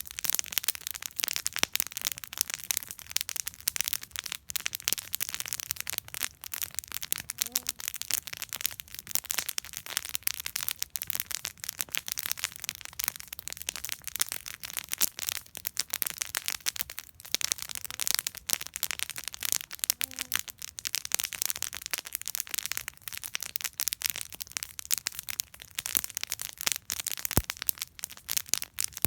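Wood campfire burning, with dense, continuous crackling and popping.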